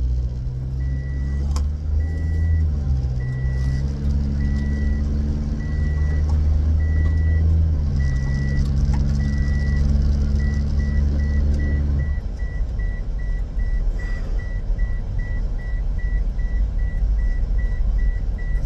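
A car's seatbelt warning chime beeping because the driver's belt is unfastened: about one beep a second at first, then faster beeps from about ten seconds in. Under it the car's engine and road noise drone, with the engine note shifting in steps.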